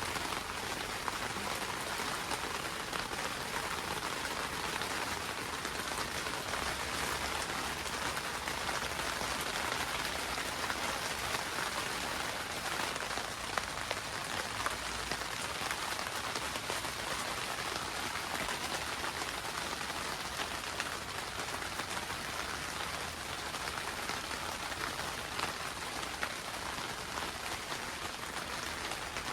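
Rain falling on a greenhouse's plastic roof, heard from inside: a steady, dense hiss with countless single drops ticking on the cover.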